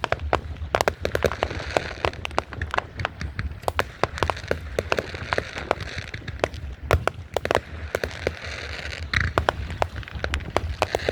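Fireworks going off in rapid, irregular succession: many sharp cracks and pops over a continuous crackling, with a low rumble underneath.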